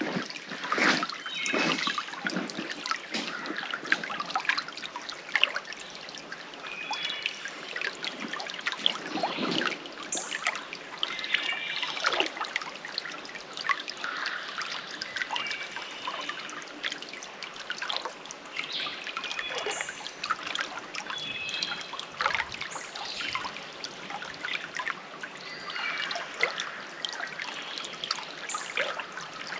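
Water trickling and splashing steadily, like a small stream running over rocks, with brief high chirps now and then.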